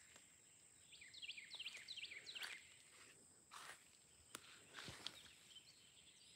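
Faint outdoor quiet with a small bird singing: a rapid run of short, high, down-slurred chirps starting about a second in and lasting about a second and a half, over a steady thin high hum, with a couple of soft rustles later.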